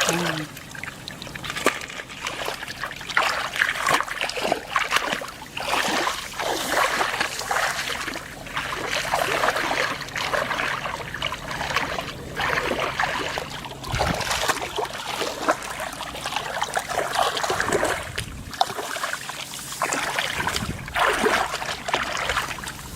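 Shallow field water splashing and sloshing in irregular bursts, from wading and groping through a flooded rice field.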